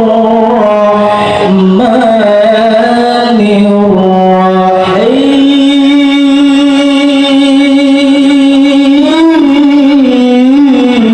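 A male qari's voice in melodic Qur'an recitation (tilawah), drawing out a phrase in long melismatic notes. It steps between several held pitches in the first few seconds. From about five seconds in it sustains one long note, with small ornamental turns near the end.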